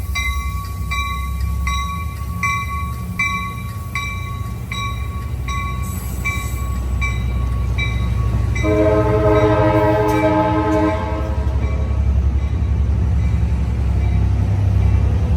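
Capitol Corridor passenger train moving off: its bell rings steadily about one and a half times a second, then a multi-note horn sounds once for about two and a half seconds, over the steady low rumble of the diesel locomotive.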